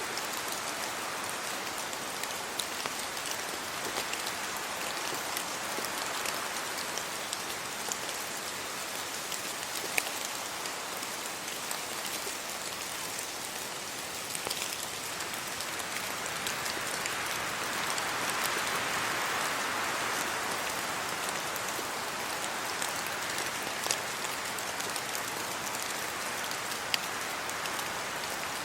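Steady rain falling on leaves and the ground, with scattered sharp drips standing out. A gust of wind through the trees swells the rush about two-thirds of the way through.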